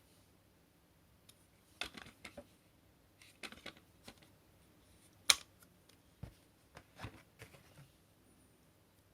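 Plastic parts of a cordless stick vacuum being handled: a scattering of clicks and light knocks, the sharpest about five seconds in, with a dull thump soon after. The motor is not running.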